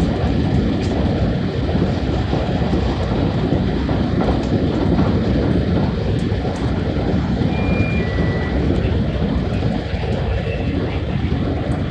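JR West 223 series Special Rapid electric train running at speed, heard from inside the car: a steady rumble of wheels on rail. Two brief high tones sound about two-thirds of the way through.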